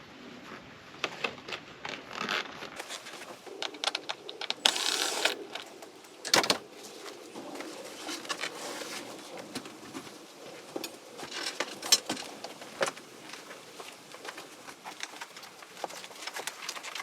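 Hands-on work noise of a camper roof panel being fitted: scattered knocks, clicks and rustling, with a short hiss about five seconds in and sharp knocks at about six and twelve seconds.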